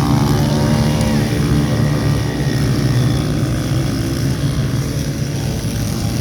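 Pit bike engines running, a steady loud motor drone with several overlapping pitches.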